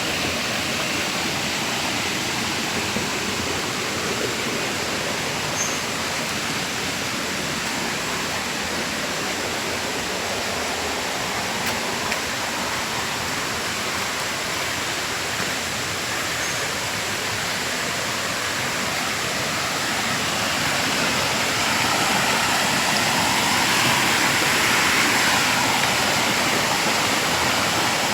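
Creek water rushing steadily, getting somewhat louder about two-thirds of the way through.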